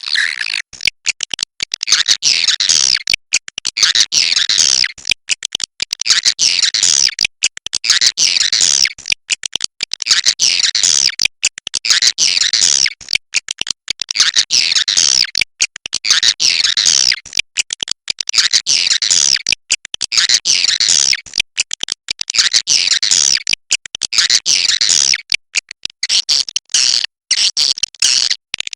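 Swiftlet 'inap' (roosting) call: high-pitched chattering twitters in rapid bursts, cut by many brief gaps, the kind of sound played to lure swiftlets to roost in a swiftlet house.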